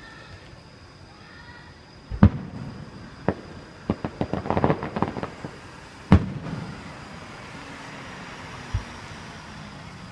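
Aerial fireworks going off: a loud bang about two seconds in, a rapid run of crackling reports around four to five seconds, another loud bang at about six seconds, and a fainter boom near the end.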